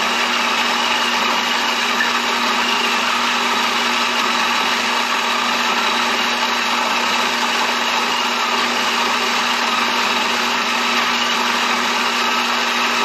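Built-in grinder of a Gevi 4-in-1 pour-over coffee maker grinding whole coffee beans at grind setting 25, a steady, even motor whir.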